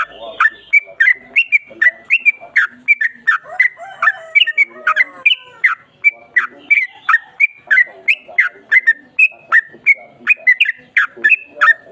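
Yellow-vented bulbul singing a long, rapid run of short, loud whistled notes, about four a second, each dropping sharply in pitch.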